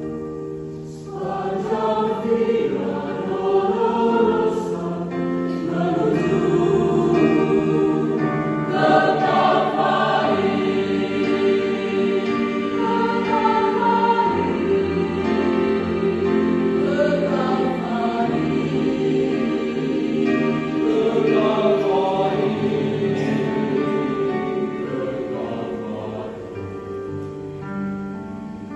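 Church choir singing in parts, the voices holding long sustained notes and swelling together about a second in.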